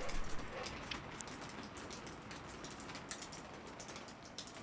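Rain falling, with many small irregular drop ticks over a faint steady hiss.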